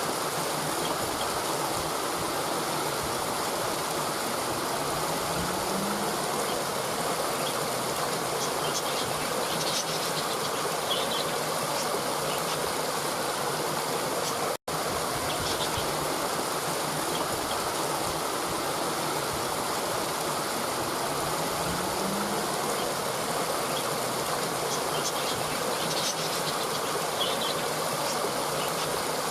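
Steady rushing of a flowing stream, with a few faint high chirps twice over. The sound cuts out for an instant about halfway through and starts again, as a looped recording does.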